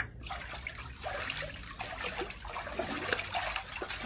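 Water running and splashing, a steady trickle broken by many small splashes.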